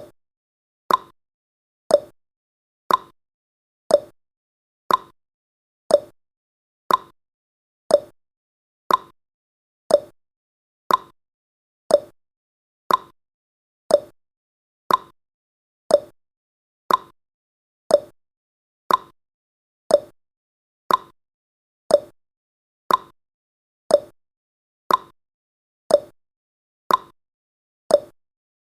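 Clock-ticking sound effect of a countdown timer: a short tick once a second, alternating between a higher and a lower pitch in a tick-tock pattern, with silence between ticks.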